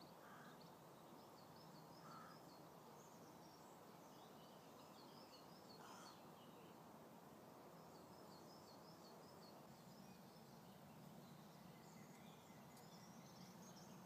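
Faint outdoor ambience with distant birds chirping in short, repeated phrases, and a few brief lower calls.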